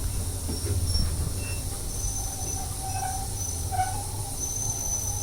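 Heritage train carriage rumbling low as the train slows into a halt, with a thin, wavering squeal from the running gear starting about two seconds in.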